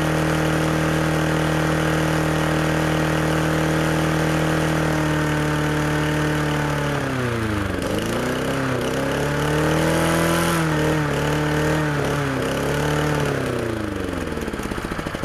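MTD push lawnmower's single-cylinder engine running steadily, then starving of fuel as the carburetor runs dry. From about seven seconds in, its speed sags and surges up and down several times, and it sputters toward a stop at the end.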